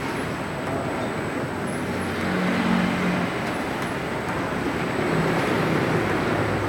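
Foam bag cutting machine running with a steady mechanical hum and whir.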